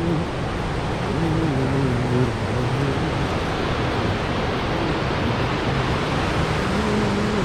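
Steady road and wind noise of a car driving, with faint low tones that step in pitch about a second in and again near the end.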